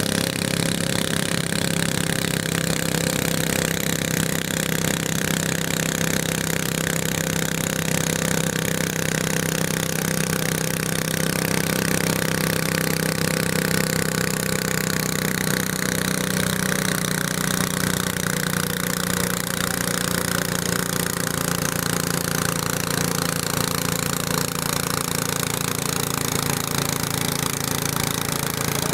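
Garden tractor engine running steadily and loudly.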